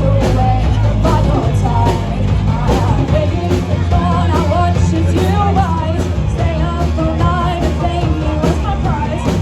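Rock band playing live at loud volume: drums, bass and electric guitar, with a singer's voice over them.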